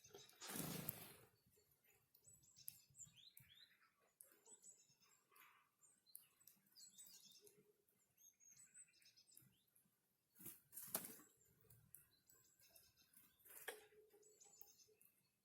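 Small forest songbirds giving many short, high chirps and calls, faint overall, with three brief louder rustling bursts, once near the start and twice in the last third.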